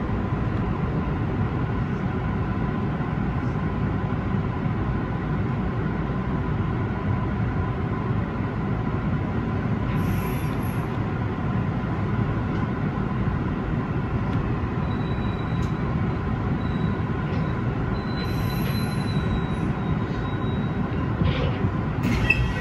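Hanshin Main Line electric train running along the track, heard from inside the front of the car: a steady low rumble of wheels on rail, with a faint high whine from about fifteen to twenty seconds in.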